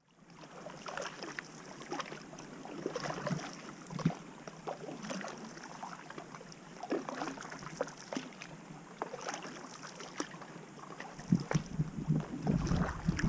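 Water sloshing and splashing irregularly against and around a canoe on a lake. Wind buffets the microphone with a low rumble near the end.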